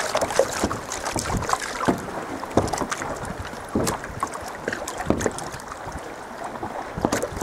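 Sea kayak on the water: irregular splashes and slaps of seawater against the hull, with wind on the microphone.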